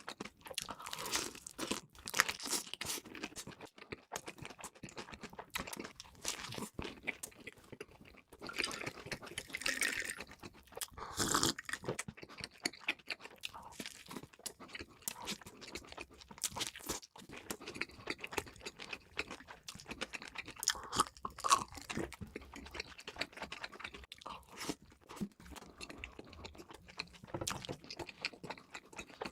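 Close-miked eating: crisp crunching bites and chewing of crispy fried food, a dense run of crackles with a few louder bites along the way.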